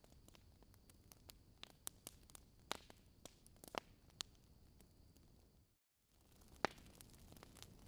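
Wood campfire crackling: irregular sharp pops and snaps over a soft hiss, with a faint steady high whine that stops shortly before a brief moment of dead silence about six seconds in, after which the crackling resumes.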